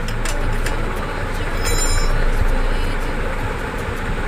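A dry, rusted swingarm and monoshock main bolt of a Yamaha FZ V3 being worked out of its bushes, giving a brief high metal-on-metal squeal about two seconds in. A steady background noise runs under it.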